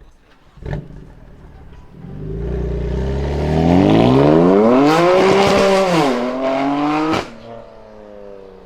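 BMW performance car's engine accelerating hard, its pitch climbing steadily, dipping once at an upshift and climbing again. The sound then drops away sharply near the end. A short sharp burst of engine sound comes before the run.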